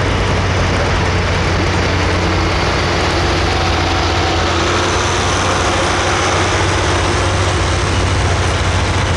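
A heavy pulling vehicle's engine running loud and steady, with a low drone under a wide rush of noise and a faint tone that rises slowly through the middle.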